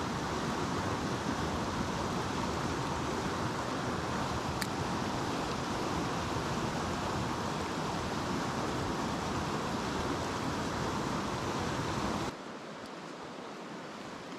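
Steady rush of a mountain stream's flowing water. About twelve seconds in it drops suddenly to a quieter rush.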